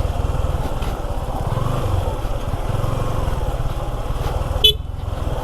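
Suzuki V-Strom 250 SX's single-cylinder engine running at low speed over rough ground, with one short sharp knock about four and a half seconds in.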